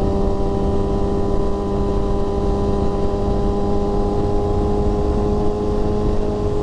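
Indian Challenger's V-twin engine running at a steady cruise through its 2-in-1 exhaust, the pitch holding level throughout, with wind rush on the microphone.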